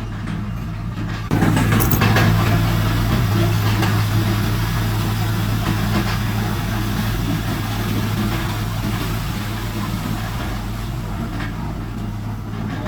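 Diesel engine of a heavy earthmoving machine running steadily. About a second in it grows louder under load, with a broad rush of mechanical noise that then slowly eases.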